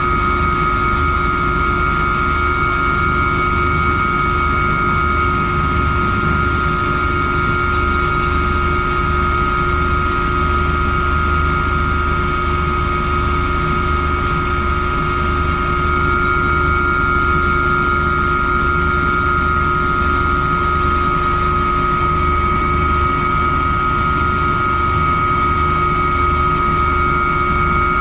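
A steady, unchanging machine drone with a constant high whine over a low rumble, like an engine or motor running at a fixed speed.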